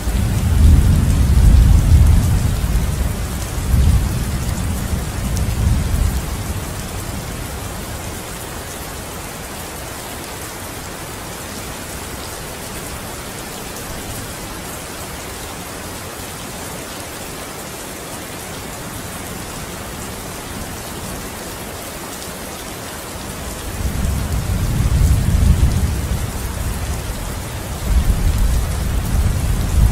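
Steady rain hissing throughout, with deep rolling thunder rumbling during the first six seconds or so and again from a little before the end.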